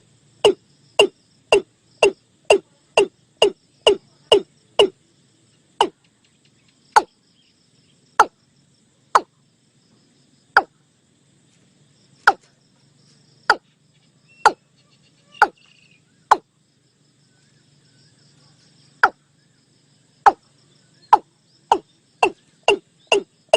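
Watercock calling: a long series of short, low, repeated notes, about two a second at first, slowing to irregular gaps of a second or more in the middle, then quickening again near the end.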